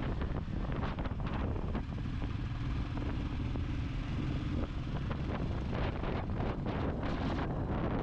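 Wind buffeting the camera microphone on a moving Royal Enfield Classic 350 in gusts, with the motorcycle's single-cylinder engine running steadily beneath the wind noise.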